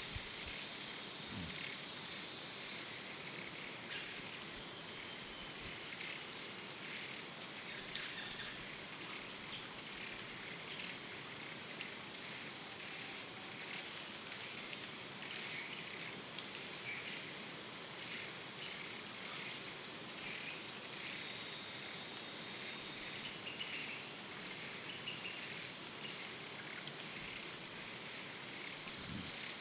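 Insects droning steadily at one high pitch, with a few faint chirps, over a soft even hiss.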